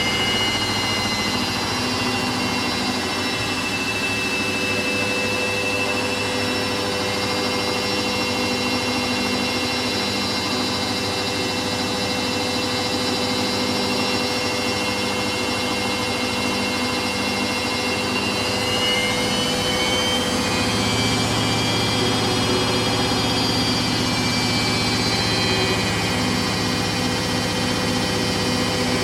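Hoover DYN9144D3X washing machine in its final spin at 1000 RPM, the motor whining steadily over the rush of the drum. About nineteen seconds in, the whine rises in pitch and a lower hum joins.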